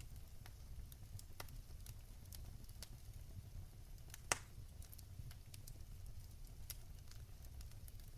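Fire crackling in a fireplace: a low steady rumble with scattered small crackles and one sharper, louder pop about four seconds in.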